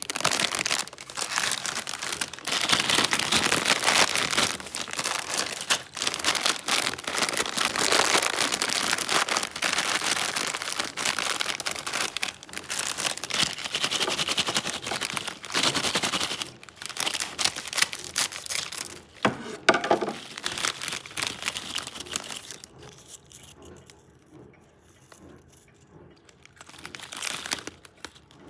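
Crinkling and rustling of a foil chip bag being handled, dense and crackly for most of the time, then dropping to a much quieter stretch with one more brief rustle near the end.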